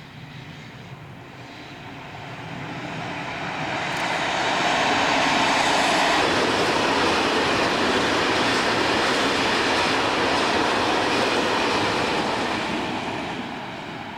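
A train passing by. It builds over the first few seconds, runs loud and steady for about eight seconds, then fades near the end.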